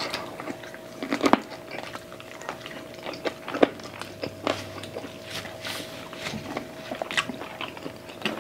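Close-miked eating sounds of people biting and chewing meat off the bone, chicken adobo and pork ribs: irregular wet clicks, smacks and crunches.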